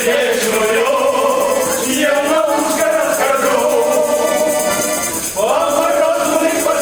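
A song: a sung vocal line holding long notes over instrumental backing, with a brief dip a little past five seconds in before the voice slides up into the next held note.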